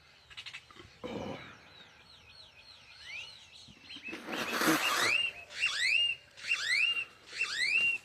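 A bird calling: a quick wavering run of whistled notes, then a string of rising whistles that each level off on a high note, repeated about once every 0.7 seconds in the second half. A loud rush of hiss-like noise comes about halfway through.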